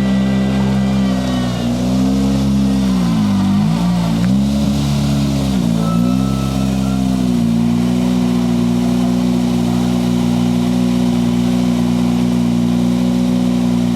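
Ford Fiesta RS WRC's 1.6-litre turbocharged four-cylinder engine running at a steady held speed. The revs dip and come back up a few times between about two and seven seconds in, then hold level.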